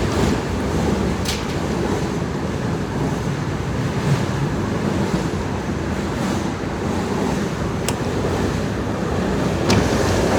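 Airport express train running over a long bridge: a steady low rumble of wheels and running gear, with a few sharp clicks.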